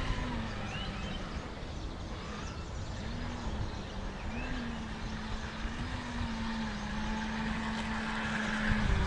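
RC jet boat running out on the water, its motor tone dipping and rising several times with the throttle and then holding steady before dropping near the end.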